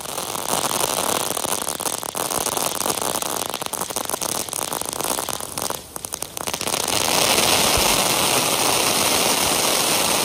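Consumer ground fireworks going off in a continuous barrage of dense crackling and hissing, starting suddenly. There is a short lull about six seconds in, and then a steadier hiss takes over.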